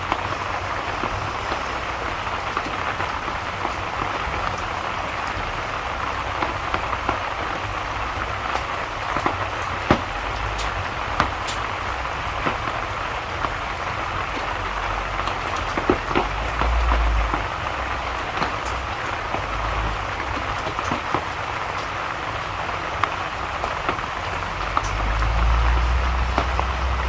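Steady rain falling, with scattered sharp clicks and drips through it. A low rumble swells twice, once midway and again near the end.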